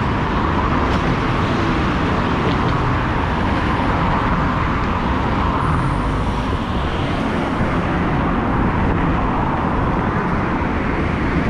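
Steady road traffic noise: a continuous rush and rumble of passing vehicles.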